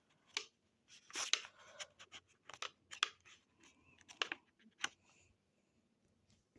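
Packaging being handled during unboxing: a string of short rustles, crinkles and light taps over the first five seconds, then it goes quiet.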